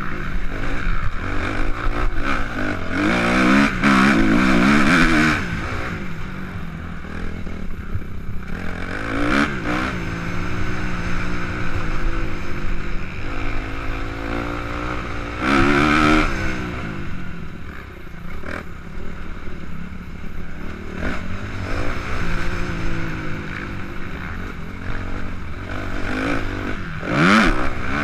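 Suzuki RM-Z 250 four-stroke single-cylinder motocross engine being ridden hard, revving up and dropping off again and again, with loud surges of throttle several times.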